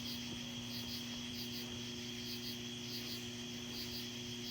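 Crickets chirping in short paired pulses, about two a second, over a steady low hum.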